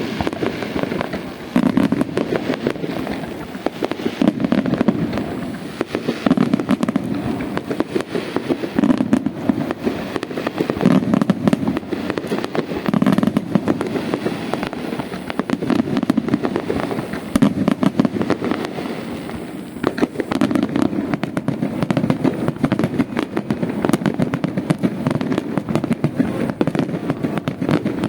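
Aerial fireworks in a dense barrage: shell bursts boom every second or two over continuous crackling and popping.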